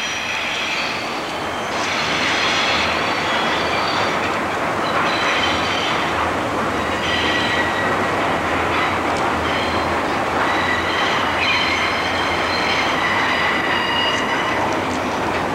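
Diesel locomotive and its train of cars crossing a steel girder bridge: a steady rumble of engine and wheels, with high-pitched wheel squeal coming and going throughout.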